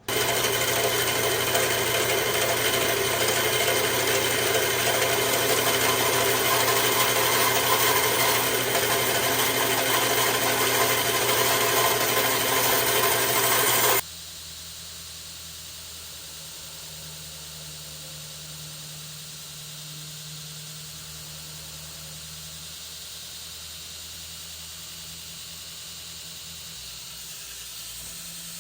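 Electric power tool running steadily, a low motor hum under a loud grinding hiss. About halfway through it cuts off abruptly, leaving a much quieter steady machine hum.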